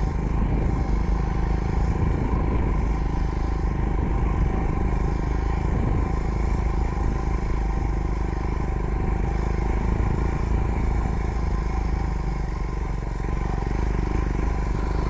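Royal Enfield Himalayan's single-cylinder engine running steadily as the motorcycle is ridden along an unsurfaced byway, with some clatter over the ground and a steady low rumble underneath.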